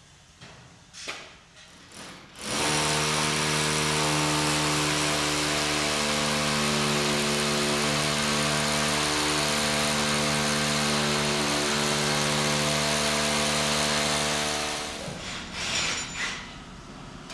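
Electric power tool running at a constant speed for about twelve seconds, switching on a couple of seconds in and winding down near the end, with a few knocks before and after.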